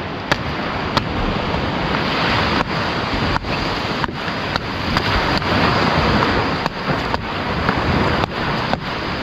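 Sea surf washing steadily on the shore, with wind, swelling and easing. Sharp short clicks come through it every half second to a second.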